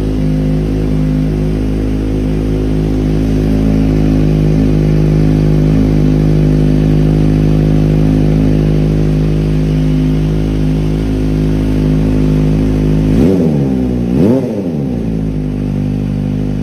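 Kawasaki ZX-25R's 250 cc inline-four engine idling steadily after a cold start, then two short throttle blips, each a quick rise and fall in pitch, about 13 and 14 seconds in.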